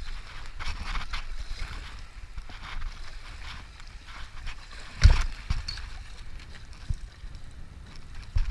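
Paddle strokes and water splashing around a whitewater stand-up paddleboard on a river, with wind buffeting the microphone as a steady low rumble. A loud thump comes about five seconds in, and a smaller knock near the end.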